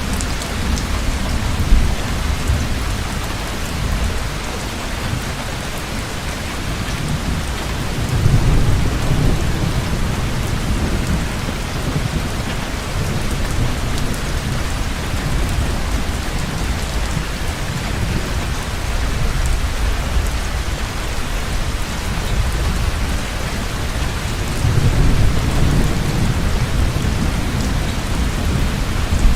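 Heavy rain falling steadily, with low thunder rumbling twice, about eight seconds in and again near the end. A single sharp tap stands out about two seconds in.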